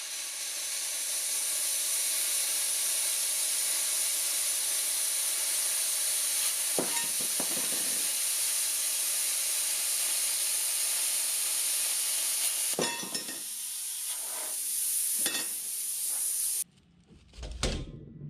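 A steady hiss with a few short knocks, cutting off suddenly about seventeen seconds in.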